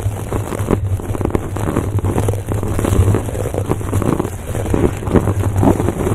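An object brushed and scratched directly against a microphone for ASMR: a rapid, irregular run of scratchy strokes over a low rumble from the microphone being rubbed.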